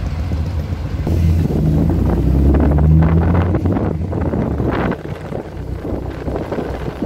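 Vintage Bentley's engine pulling the car along, heard from the open cockpit with wind on the microphone. It gets louder and its pitch rises from about a second in, then drops away suddenly about five seconds in as the throttle eases off.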